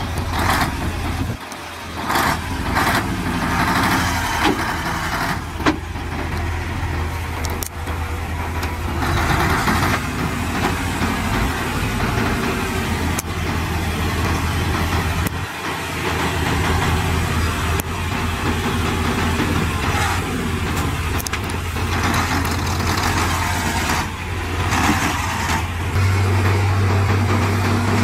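Heavy diesel engines of earthmoving machinery running steadily with a low drone, swelling louder at times; the sound briefly dips about a second and a half in and again around the middle.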